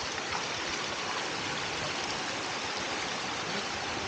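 Steady rush of a forest stream pouring over rocks at a waterfall, an even hiss of flowing water.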